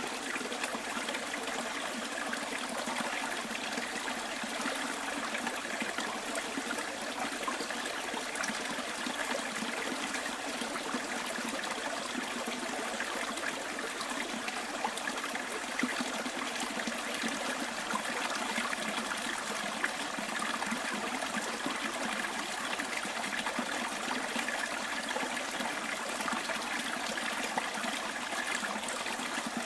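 Small bush stream flowing and trickling over stones, a steady babble with small splashes flickering through it.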